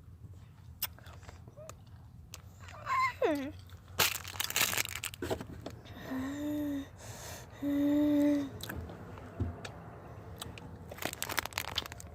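Candy packet crinkling and tearing in bursts, with a person's short falling vocal sound and two held hums on one low note in between.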